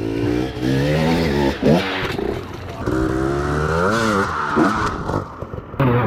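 Dirt bike engines revving hard, pitch rising and falling with the throttle, with one long rev climbing and dropping about four seconds in.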